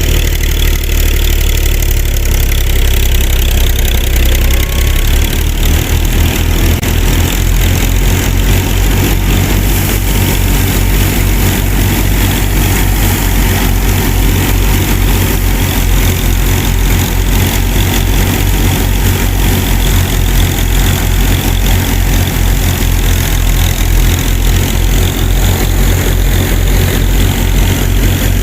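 A small engine running steadily, with a fast, even low throb that settles in about five seconds in.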